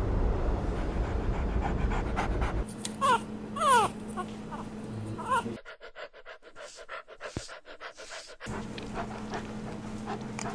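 Puppy whimpering: a few short, falling whines about three to four seconds in and one more a little later, over low background noise.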